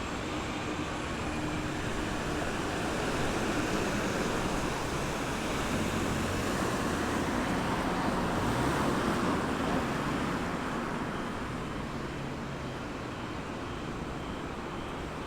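Road traffic at a roundabout: cars and other vehicles running past in a steady wash of tyre and engine noise. A louder vehicle swells past in the middle and fades away toward the end.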